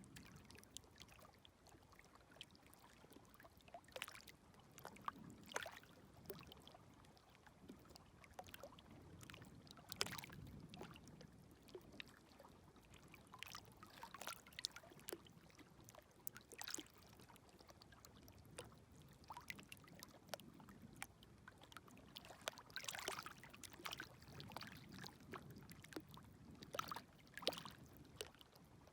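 Small, gentle waves lapping faintly at the shoreline, with a low wash and scattered light splashes and trickles that swell every few seconds.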